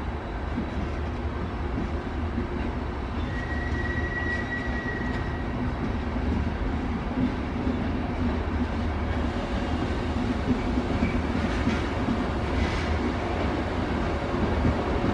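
Trenitalia Intercity train rolling slowly through the station, a steady low rumble. There is a brief high wheel squeal about three seconds in and a few wheel clicks over rail joints near the end.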